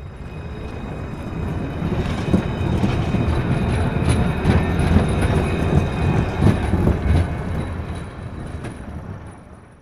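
A train passing by: heavy rumble with wheels clattering over rail joints and a faint high squeal, swelling up, loudest in the middle, then fading away.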